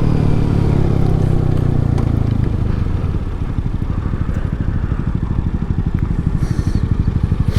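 Yamaha MT-07 parallel-twin motorcycle engine heard from the bike: its revs fall over the first few seconds, then it runs at low revs with an even, pulsing beat.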